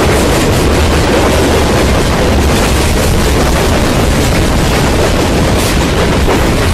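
Freight train covered hopper cars rolling past close by: a loud, steady rumble of steel wheels on rail with a heavy low boom underneath.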